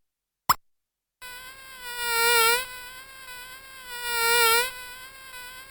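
Electronic sound chip of a Playskool Magic Screen Learning Desk: one short electronic chirp, then a buzzing, slightly warbling electronic tone from about a second in that swells louder about every two seconds.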